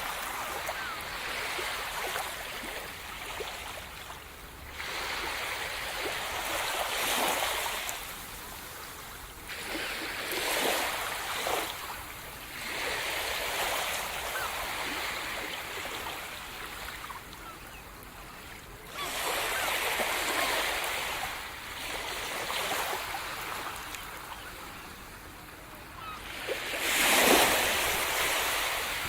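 Sea surf: waves breaking and washing up the shore in surges every few seconds, with the biggest wave near the end.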